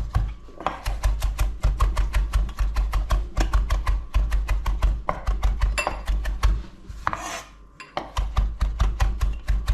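Kitchen knife rapidly chopping fresh mint leaves on a chopping board, about five or six even strokes a second. About seven seconds in the chopping pauses for a short swish, then resumes.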